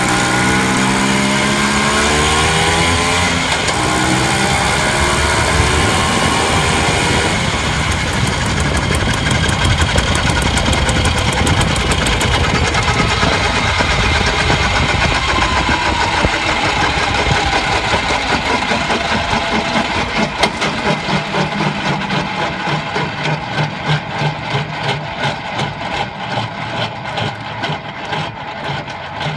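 Vespa Rally 200 scooter's two-stroke single-cylinder engine running and making odd noises. The revs fall over the first few seconds, it runs steadily, then in the last several seconds it settles into an uneven, pulsing idle that slowly fades.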